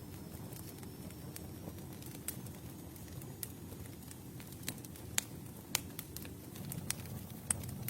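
Campfire burning: a steady low rumble of flames with irregular sharp crackles and pops from the burning wood, a few louder pops in the second half.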